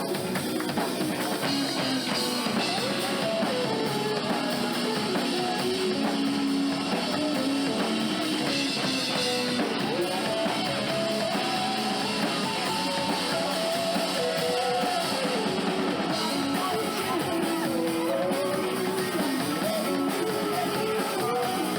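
Live rock band playing an instrumental passage without singing: guitars over a drum kit, with a melody line wandering up and down throughout.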